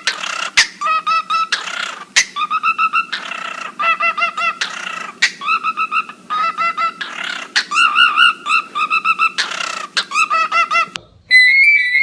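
Bird calling in rapid runs of short repeated chirps, about five a second, broken by harsh screeches. Near the end it switches to a whistled run of clear stepped notes.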